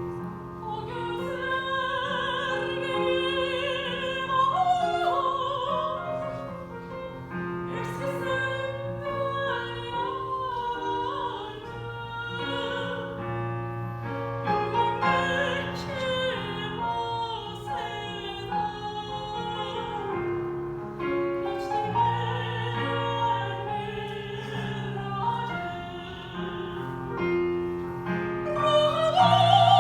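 Mezzo-soprano singing in a classical, operatic style with wide vibrato on long held notes, over a piano accompaniment.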